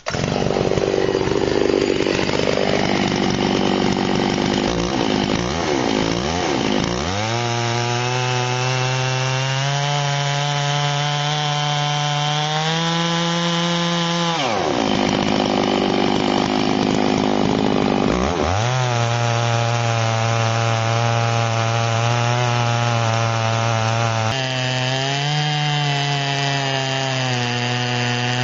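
Chainsaw on a chainsaw mill ripping a log lengthwise, the engine held at high throttle. Its pitch sags under load and climbs back several times, with one deep bog about halfway through before it recovers.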